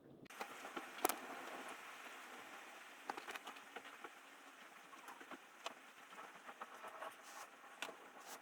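Rain pattering on a surface: a steady hiss with scattered irregular ticks, starting suddenly just after the beginning.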